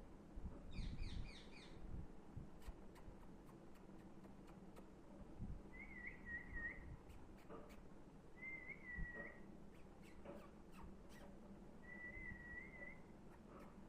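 Pet parrot giving a quick run of chirps about a second in, then three short wavering whistles, each about a second long, with scattered light clicks between them.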